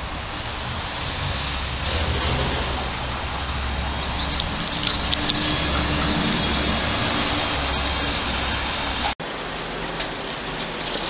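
Birds chirping in short high calls over a steady rush of outdoor background noise with a low hum; the sound drops out for an instant about nine seconds in and resumes.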